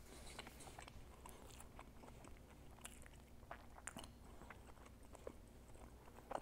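Faint chewing of a mouthful of burger: soft, scattered mouth clicks and smacks over a low hum, picked up close by a clip-on microphone.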